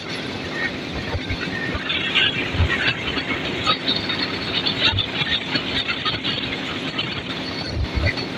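Indian Railways passenger coach running at speed, heard from the coach side: a steady rush and rumble of wheels on rail with wind, a few low thuds and short high wheel squeals.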